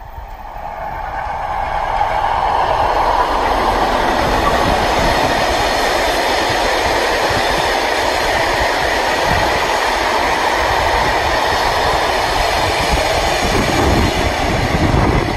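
Coaches of a steam-hauled passenger train running past at speed: a steady rush of wheels on rails that builds over the first two seconds. Near the end a deeper sound comes from the diesel locomotive at the tail.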